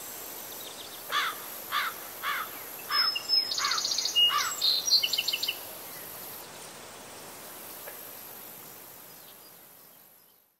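Birds calling over a steady outdoor hiss: a run of about seven falling chirps, roughly two a second, then quick high trills, with the ambience fading out near the end.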